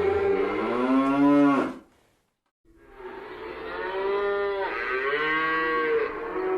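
Cow mooing: a long moo that ends about two seconds in, then after a short silence a second long moo.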